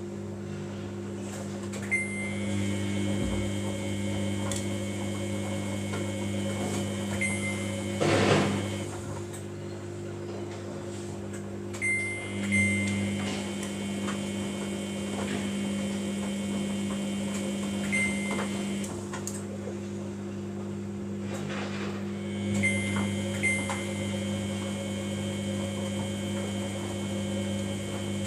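Samsung front-loading washing machine tumbling a wash while its water heats: the drum motor turns with a whine for several seconds, stops, and starts again three times, over a steady hum, with a sloshing splash about a third of the way in.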